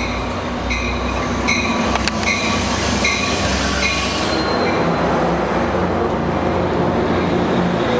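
Amtrak F59PHI diesel locomotive arriving slowly, its bell ringing about every three-quarters of a second until about halfway through, over the steady low rumble of the train. The rumble and noise swell in the second half as the train draws alongside.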